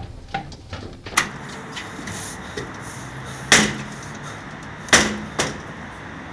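Four pistol shots, sharp bangs with short echoing tails, the two loudest about three and a half and five seconds in.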